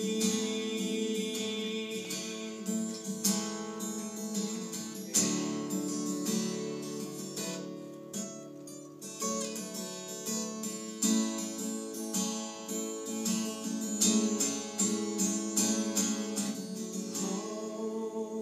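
Acoustic guitar strummed in chords, an instrumental break between sung lines of a worship song.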